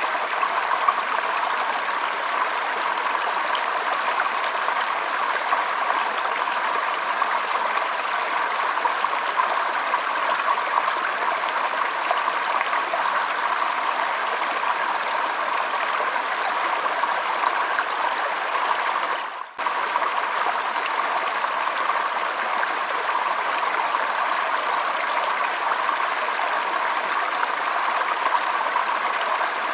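Shallow stream trickling and flowing steadily over stones, with a brief dropout about twenty seconds in.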